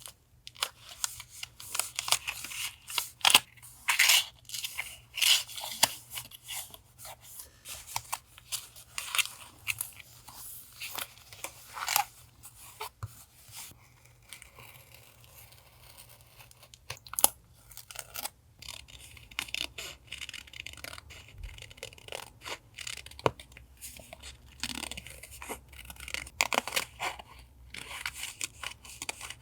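Paper being handled, torn and cut for a collage journal: a run of short, irregular rustles, rips and snips, with a low steady hum underneath.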